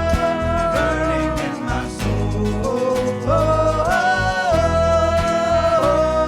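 Worship band music with a steady bass, guitar and long held melody notes.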